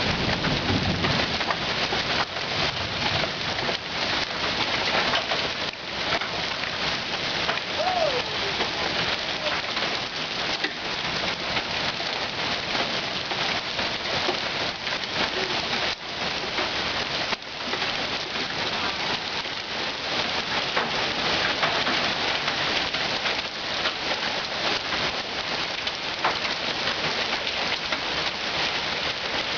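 Hail and rain pelting down together in a dense, steady clatter of hailstones striking surfaces.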